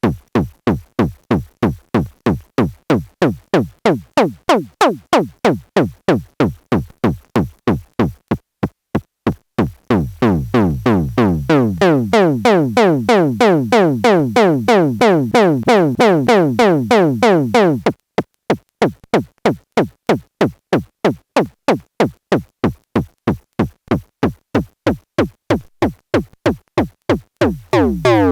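SxLab Fortress experimental synthesizer playing a sequenced patch of short percussive blips, each falling quickly in pitch, at about four a second. Partway through the hits become fuller and overlap for several seconds, then thin out again.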